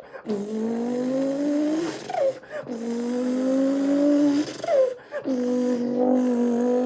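A man's mouth imitation of a Subaru BRZ engine accelerating through the gears: three long, slowly rising buzzing pulls, each ending in a quick falling blip like a gear change.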